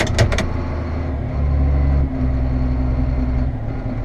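Tractor diesel engine idling steadily, its low note shifting for a couple of seconds mid-way. A few quick clicks just at the start.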